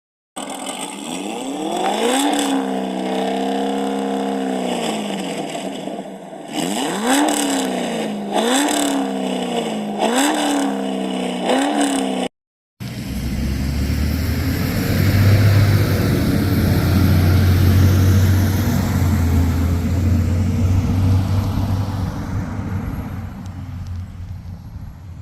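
Car engine revving: one long rise and hold, then a series of quick throttle blips that each climb sharply and fall back. It cuts off abruptly, then a steady low engine drone follows and fades away near the end.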